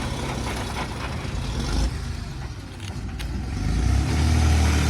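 JCB 3DX backhoe loader's diesel engine running, revving up and getting louder about four seconds in, with a couple of short knocks in the middle.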